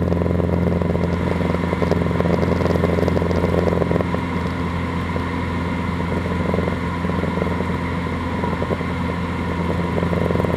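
Cessna 150's engine and propeller drone steadily, heard from inside the cabin. About four seconds in the sound turns a little smoother and quieter.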